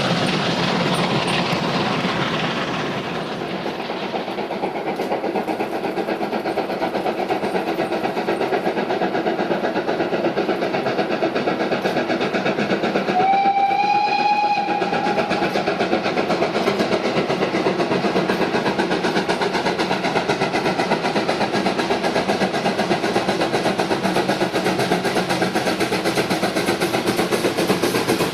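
Train running with a steady rhythmic beat. About halfway through, a single whistle blast lasting about a second and a half rises slightly in pitch at its start.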